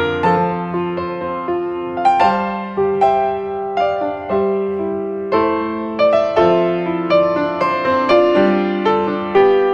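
Solo piano music, a gentle melody of struck notes over sustained chords.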